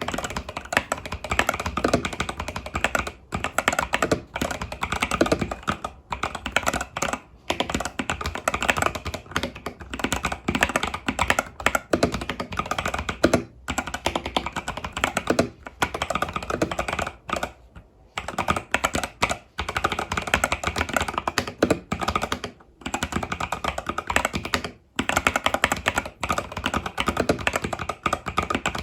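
Fast continuous typing on an Epomaker TH80 Pro mechanical keyboard with Epomaker Budgerigar tactile switches and stock keycaps: a dense run of keystroke clacks, broken by a few short pauses.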